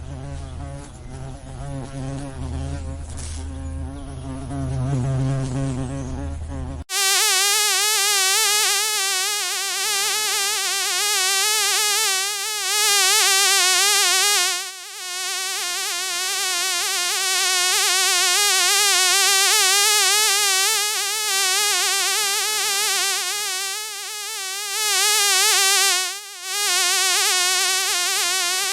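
An insect buzzing over a low hum, then an abrupt switch about seven seconds in to a mosquito's whine. The whine is a loud, high, pitched drone whose pitch wavers quickly, and it drops out briefly twice.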